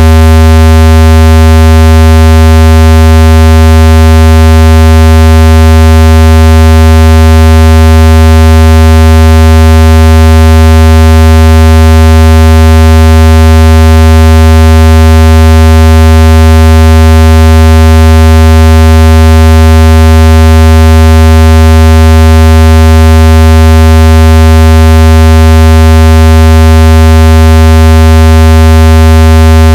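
Speaker-cleaning test tone: a loud, steady, low buzzing tone with a long row of overtones, held without change. It is played at full volume to vibrate water and dust out of a phone speaker.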